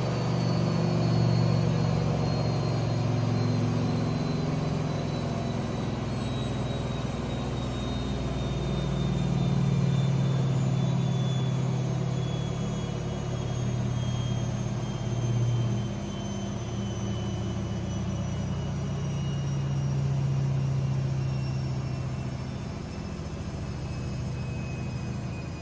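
AEG Lavamat 6610 washing machine in a high-speed spin, its motor running with a steady low hum and a thin whine that slowly falls in pitch, typical of a spin late in the cycle.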